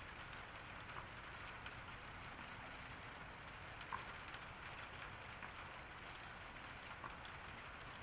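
Steady summer rain falling in a garden, a soft even hiss with scattered individual drops ticking on surfaces, one louder drop about four seconds in.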